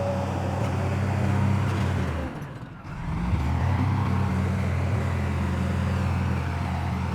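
Heavy diesel engine of earth-moving machinery running steadily. It drops away sharply about two and a half seconds in and comes back about half a second later.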